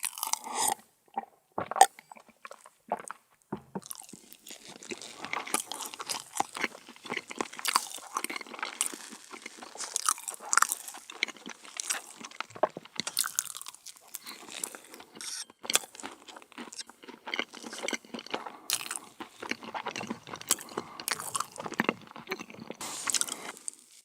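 Close-miked eating of meringue cookies: crisp crunching bites and chewing, a few separate crunches at first, then dense continuous crackling.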